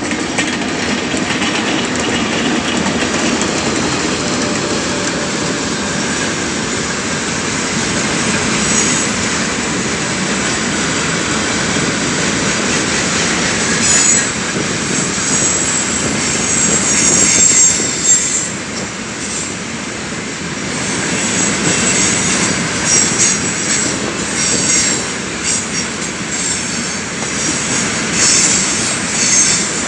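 A heavy freight train of tank cars hauled by an electric locomotive rolls past with a steady rumble and wheel clatter. From about a third of the way in, wheels squeal at a high pitch on and off.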